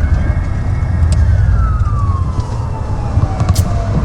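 Police siren wailing, one quick rise in pitch near the start and then a slow fall, over a loud low rumble of engine and road noise.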